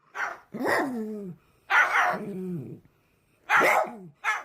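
A dog giving a run of about four drawn-out, barking vocalizations, each sliding down in pitch, as if it were talking back.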